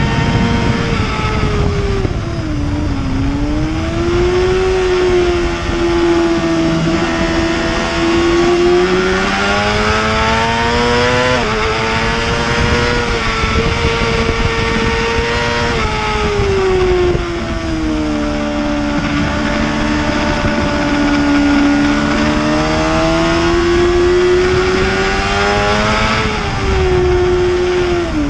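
Racing superbike engine at high revs, its pitch climbing and falling with throttle and gear changes, with a few sudden steps at the shifts, over a steady rush of wind.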